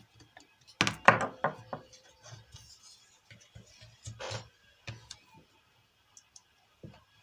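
Hard objects knocked and set down on a workbench: a quick cluster of clatters about a second in, another short clatter around four seconds in, and light ticks between.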